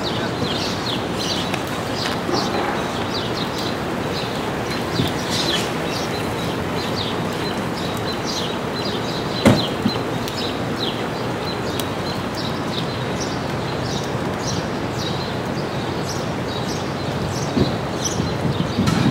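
Birds chirping, many short falling calls repeating one after another, over a steady outdoor noise. A single sharp click sounds about halfway through.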